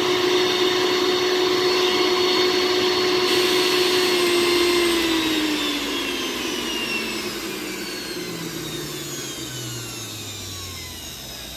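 Sujatha mixer grinder motor running at a steady high speed, then switched off about five seconds in and winding down, its whine falling steadily in pitch as it coasts to a stop.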